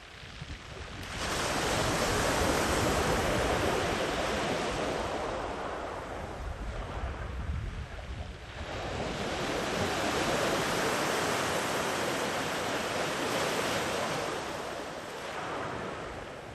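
Ocean waves breaking and washing up a sandy beach: two surges of surf, the first rising about a second in, the second about halfway through, each rushing in and fading away.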